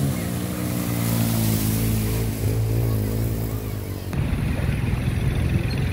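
A motor vehicle's engine running, its steady pitch wavering slightly. About four seconds in, the sound cuts abruptly to a rougher, pulsing engine-like rumble.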